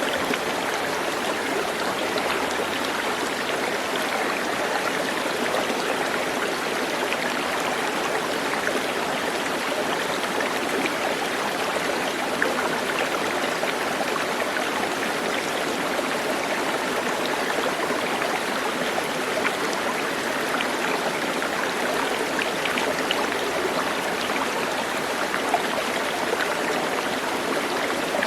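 Steady running water, as of a stream, flowing evenly, with a few brief splashes.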